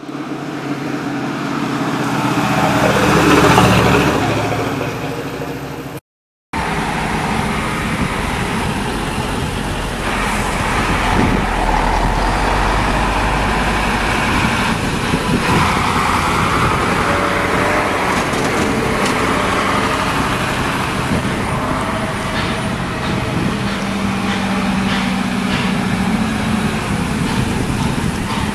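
A ZiL-130 fire truck's V8 engine passing by, louder until about three and a half seconds in and then fading. After a brief break about six seconds in, other fire trucks' engines run steadily.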